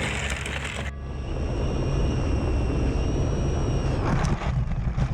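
Guitar music ends about a second in, giving way to wind rumbling on the microphone and a steady high whine from the RC plane's electric motors. A few short knocks come near the end.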